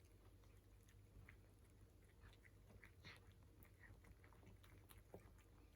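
Cats eating from their bowls: faint, irregular chewing clicks and small crunches.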